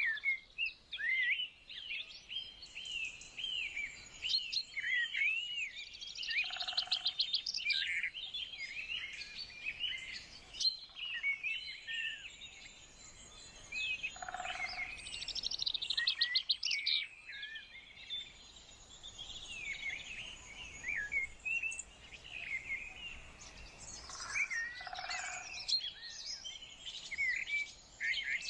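Several songbirds singing at once: a dense, continuous chorus of overlapping chirps and warbling phrases, with rapid trills now and then. A lower short note sounds three times among them.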